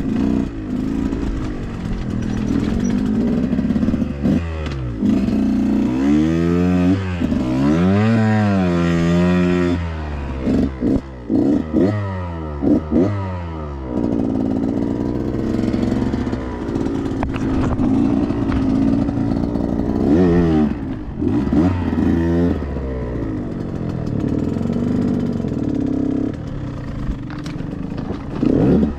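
Dirt bike engine revving hard, its pitch rising and falling again and again as the throttle is worked, with a rattle of clatter.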